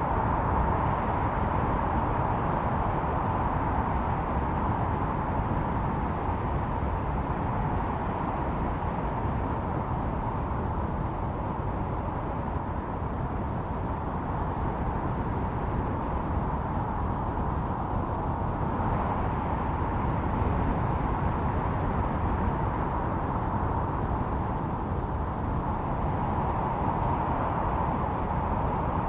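Blizzard wind howling steadily, swelling and easing in slow gusts every several seconds.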